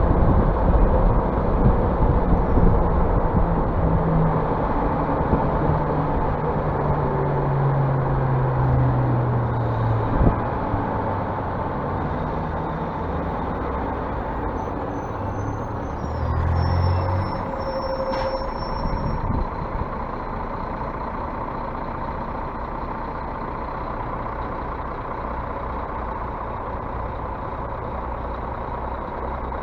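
Scania bus diesel engine running, its pitch falling over the first third as it slows, with a single knock about a third of the way in and a brief low surge a little past the middle before it settles into a steady run.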